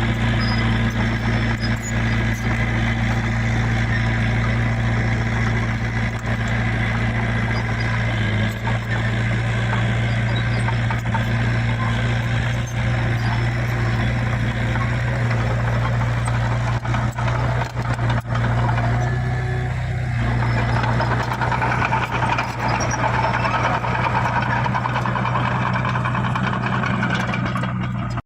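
Heavy diesel engine of earthmoving machinery running steadily under work, with a strong low hum; the pitch and the mix shift about twenty seconds in.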